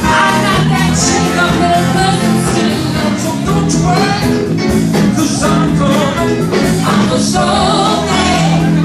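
Live dance band playing an upbeat song with a singer over a steady beat.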